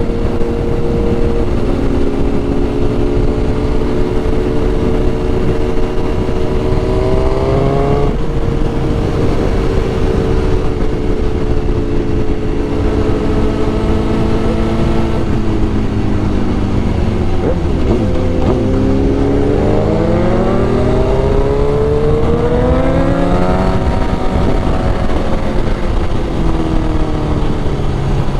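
Sport motorcycle's inline-four engine under way with heavy wind rumble. The engine note climbs and drops sharply at an upshift, sinks as the bike slows, then climbs again to a second upshift near the end.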